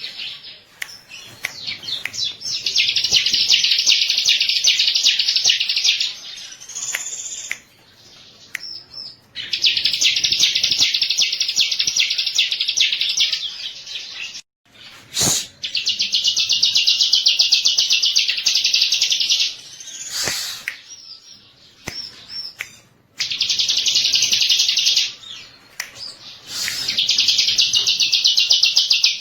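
Bar-winged prinia (ciblek) singing: long, rapid, buzzing trills of three to four seconds each, repeated about five times with short gaps, and brief chips and sharp calls between the phrases.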